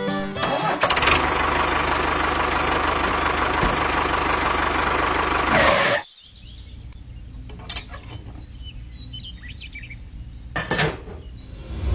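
A loud, steady rushing noise for about five seconds that cuts off suddenly, followed by a quieter outdoor background with a few short bird-like chirps.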